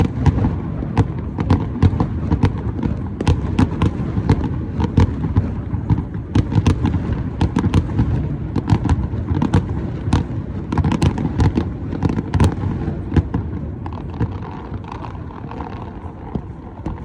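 Fireworks display: a rapid, irregular run of sharp bangs and crackles over a continuous low rumble of booms, thinning out over the last few seconds.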